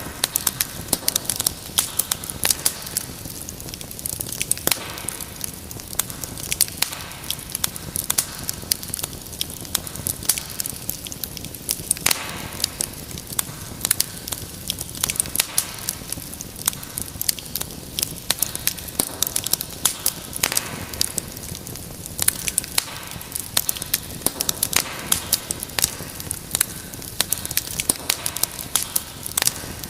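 Wood fire crackling steadily in a fireplace: a continuous hiss with many sharp irregular pops and snaps.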